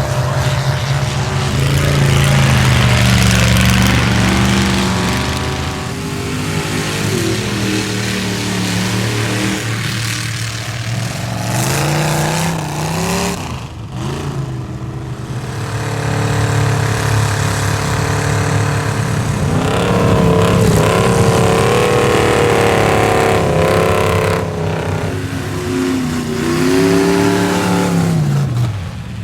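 A square-body Chevrolet mud truck's engine at full throttle through a mud bog, its revs climbing and falling again and again. The engine pitch dips sharply about halfway through and again just before the end.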